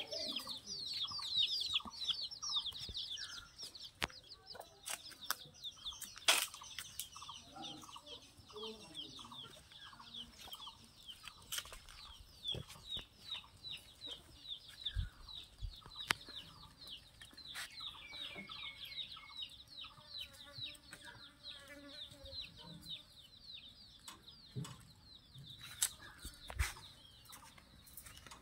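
Chickens clucking over a constant, dense high-pitched chirping, with a few sharp knocks.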